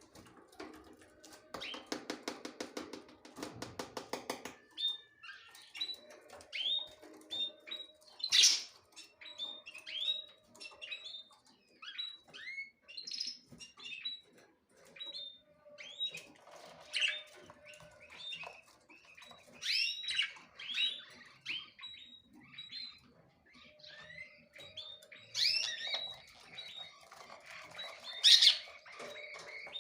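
Small birds chirping over and over in short, quickly falling chirps, with a few louder calls now and then. Near the start there is a rapid buzzing rattle that lasts about three seconds.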